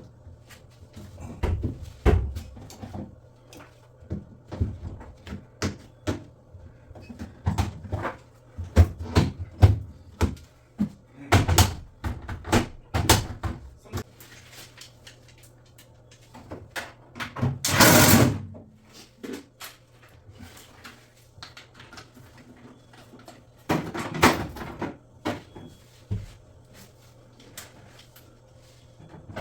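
Irregular knocks, taps and clatter of hard parts being handled and set down, with a brief loud rushing noise about midway and a faint steady low hum underneath.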